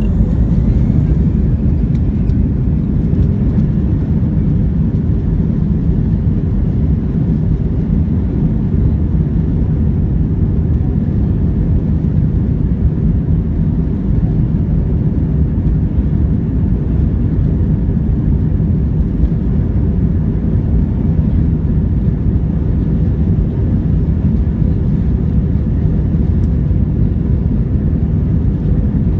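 Steady, loud low rumble of an Airbus A321's jet engines and airflow, heard inside the cabin, holding at a constant level without change.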